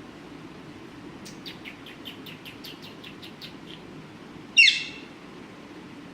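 Alexandrine parakeet giving a quick run of short chirps, about four or five a second, then one loud harsh squawk that falls in pitch.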